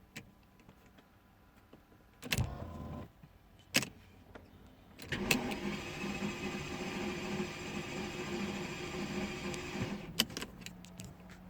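Mercedes-Benz S600 biturbo V12's starter motor cranking the engine steadily for about five seconds without it catching, with clicks before and after. This is a crank-but-no-start, the kind tied to fault code P0335, a crankshaft position sensor fault.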